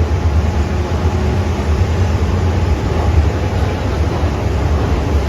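MTR M-Train electric multiple unit running on the Tsuen Wan Line: a loud, steady low rumble under an even hiss.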